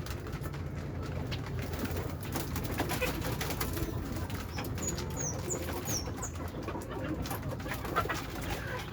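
Domestic pigeons cooing in a low, continuous murmur, with scattered clicks and, about halfway through, a quick series of five short high chirps.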